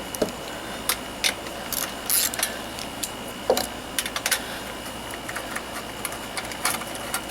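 Scattered metallic clicks and clinks of hand tools and parts being handled while taking the fan shroud off a Craftsman lawnmower engine, irregular and a few per second at most.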